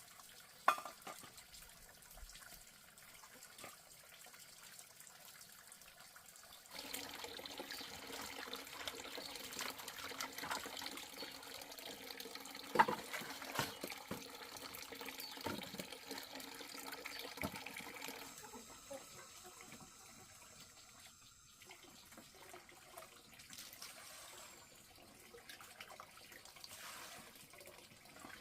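Water running and splashing, with a few small knocks. It grows louder about a quarter of the way in and eases off a little past the middle.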